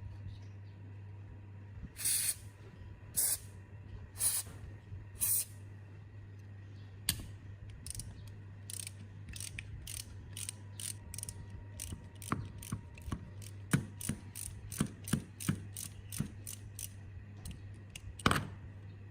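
Ratchet-like metallic clicking from a hand tool working on the pump, about two clicks a second, with a louder click near the end. It is preceded by four short, loud noisy strokes, over a steady low hum.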